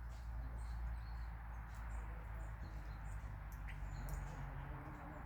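Small songbirds chirping with short, scattered high notes, over a steady low rumble of outdoor background noise.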